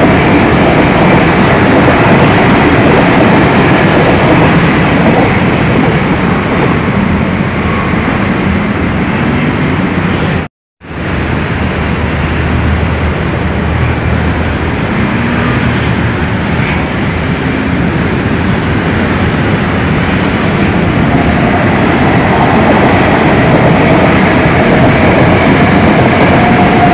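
Electric commuter trains running on the tracks below: a steady loud rumble with a faint whine, which drops out for a moment about ten seconds in and then continues as another train comes in near the end.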